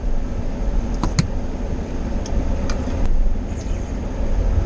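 Steady low rumble of a car, with a few faint clicks scattered through it.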